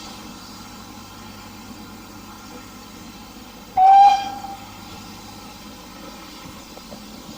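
A steam locomotive's whistle gives one short blast about four seconds in, over a steady low hum.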